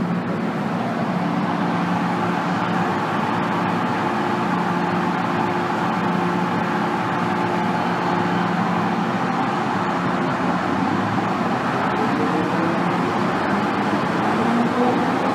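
Cabin noise of an MTR Tsuen Wan Line M-Train running between stations: a steady rumble of wheels on track with a held motor hum. In the last few seconds a whine climbs in pitch as the traction motors pick up speed.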